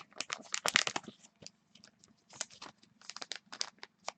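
Small clicks and crinkles from a trading card being handled in its plastic sleeve and holder. They come in a dense cluster in the first second, then scattered taps and rustles.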